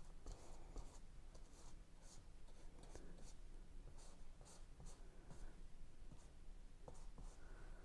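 Paintbrush working oil paint: faint, short scratchy strokes of the bristles, repeating several times a second.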